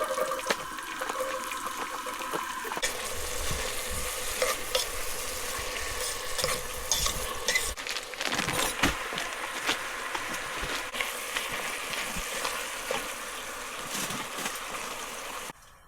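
Food sizzling and frying in a pan as the chili is started, stirred with a utensil that clicks and scrapes against the pan. The sizzle cuts off abruptly near the end.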